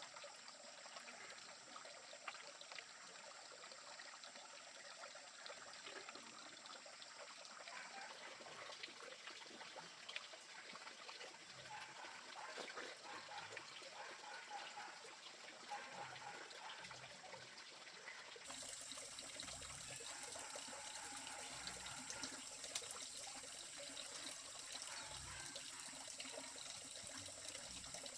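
Faint trickling and flowing water of a stream or river. About two-thirds of the way through, the sound changes suddenly to a brighter, fuller wash of water.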